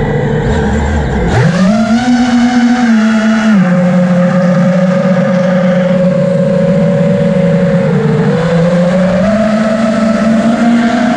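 Drift car engine running hard at high revs. The pitch shoots up about a second and a half in, is held, drops a step a couple of seconds later and dips briefly near the end before climbing again, with tyre noise under it.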